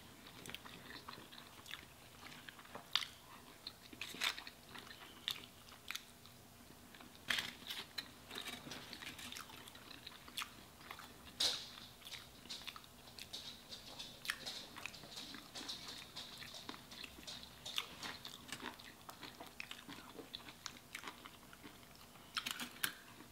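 Close-up eating sounds of burgers and fries being chewed and bitten: irregular small wet smacks, clicks and crunches of chewing mouths, scattered throughout.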